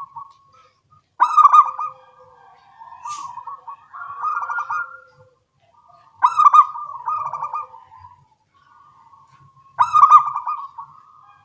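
Zebra doves (local perkutut) cooing back and forth. Three loud phrases of coos come about a second, six seconds and ten seconds in, with softer cooing between them.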